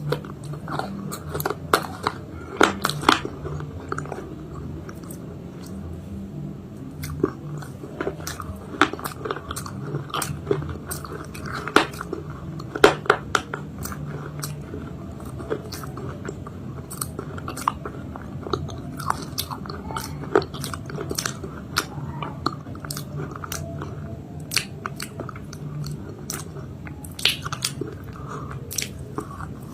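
Close-miked biting and chewing of a crunchy homemade chalk-paste cake: many irregular sharp crunches over a steady low hum.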